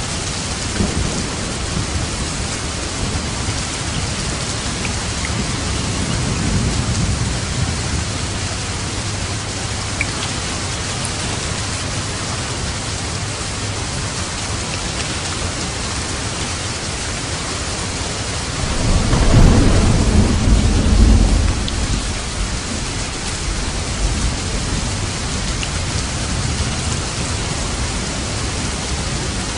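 Steady rain falling with thunder. A soft low rumble swells about five seconds in, and a louder roll of thunder comes about two-thirds of the way through.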